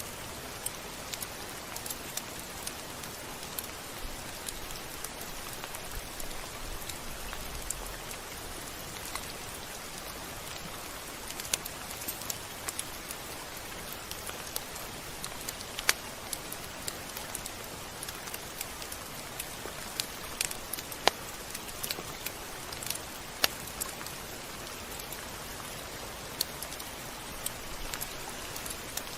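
Steady rain: an even hiss of rainfall with scattered sharp drop hits landing on a surface, a few louder than the rest.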